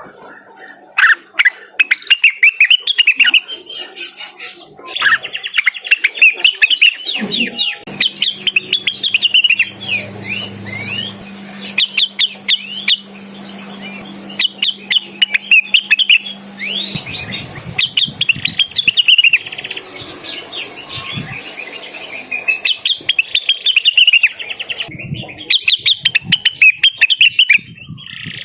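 Greater green leafbird (cucak wilis) singing hard and non-stop: fast runs of high chirping, warbling notes in phrases of a few seconds, the full-voiced challenging song that is used to call out a rival bird.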